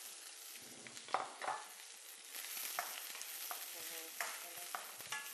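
Spring onions sizzling in butter in a wok, stirred with a wooden spatula that scrapes and knocks against the pan; the sharpest knocks come about a second in.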